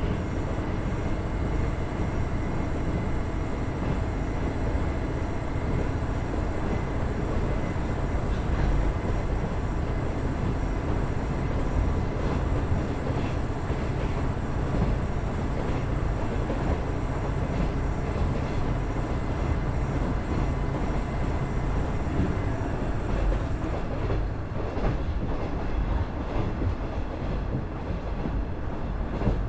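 KiHa 110 series diesel railcar under way, its Cummins DMF14HZA engine and wheels on the rails giving a steady drone with several steady tones. A whine near the top of the sound fades over the first several seconds, and near the end the high hiss drops away and short wheel clicks over rail joints come through.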